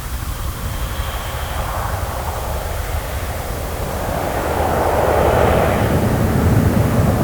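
Fixed-wing airplane engine noise: a steady low rumble that swells and grows louder about halfway through.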